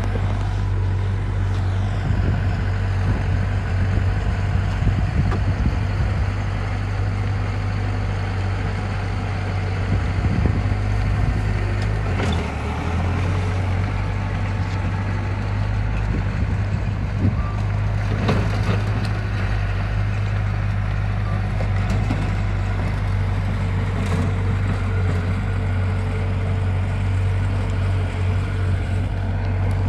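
Diesel engine of heavy earthmoving equipment running steadily with a deep rumble, with a couple of brief clanks in the middle.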